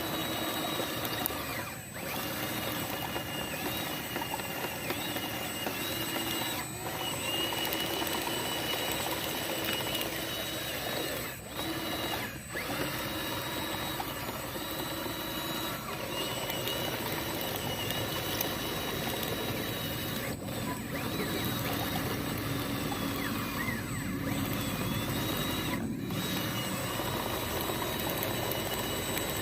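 Small electric motors and gear drives of radio-controlled construction models running, a mechanical whir with a whine that shifts in pitch. The sound drops out briefly several times as the controls are let go and taken up again.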